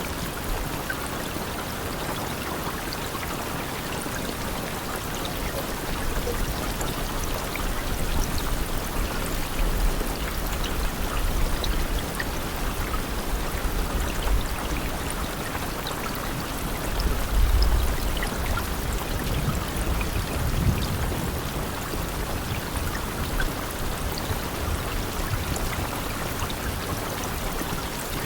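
Steady rainfall: an even hiss of rain with scattered individual drop ticks. A low rumble swells and fades several times, strongest a little past the middle.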